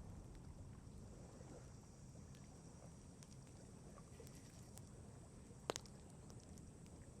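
Wood campfire crackling faintly, with scattered small ticks and one sharp pop a little before six seconds in, over a low steady rumble.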